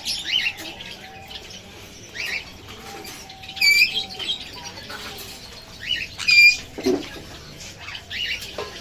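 Small pet birds chirping in quick short notes, with two louder, sharp calls about three and a half and six and a half seconds in.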